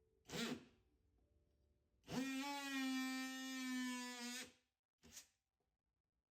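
Electric power tool run in trigger pulls: a quick blip, then a steady high-pitched whine that spins up fast and holds for about two and a half seconds before winding down, then another brief blip.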